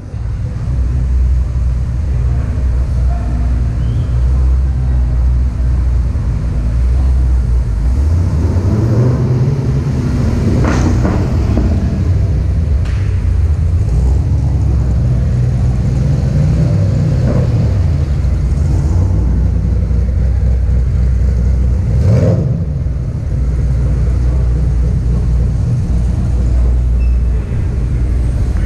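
Car engines and exhausts rumbling at low revs, with several revving accelerations as cars drive off: a long one about 8 to 11 seconds in, another around 16 to 17 seconds, and a short rev about 22 seconds in.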